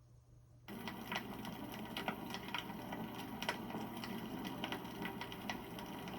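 Wood campfire crackling, with frequent sharp pops and snaps; the sound starts suddenly a little under a second in.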